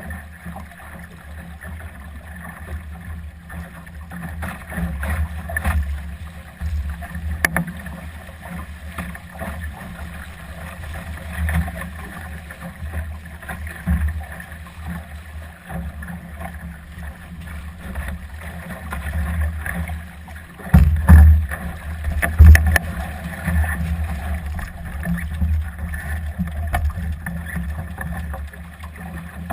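Gusty wind buffeting the microphone aboard a Solo sailing dinghy, an uneven low rumble that rises and falls with the gusts, with a few small clicks from the boat. Two loud thumps come about two thirds of the way in.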